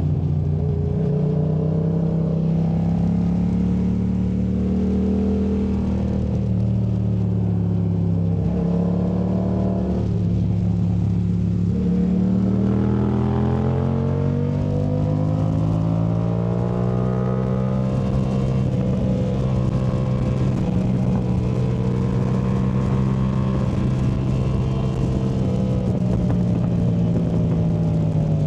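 2019 Yamaha MT-07's 689 cc parallel-twin engine through a Yoshimura AT2 Race exhaust, heard from the rider's seat, its pitch falling and rising as the throttle is rolled off and opened again through tight bends. About halfway through it pulls up in a long, steady climb, then holds fairly level before dropping back near the end.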